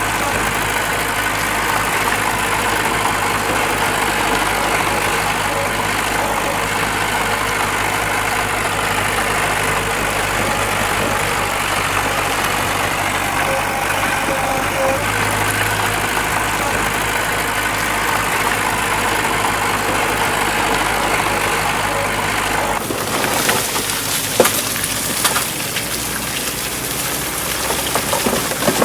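A heavy machine's diesel engine running steadily at idle. About 23 seconds in it stops abruptly and gives way to a rushing, crackling noise with a few sharp knocks.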